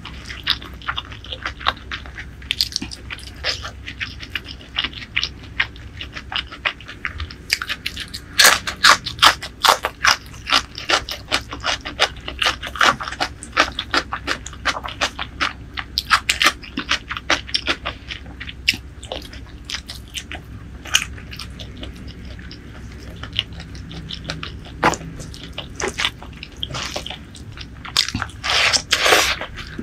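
Close-miked eating: a person chewing and biting curry and rice eaten by hand, a dense run of short mouth clicks and soft crunches, busiest about eight seconds in and again near the end.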